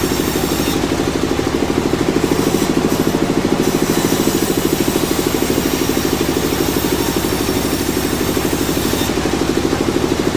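An engine running steadily with a fast, even pulsing beat, unchanged throughout.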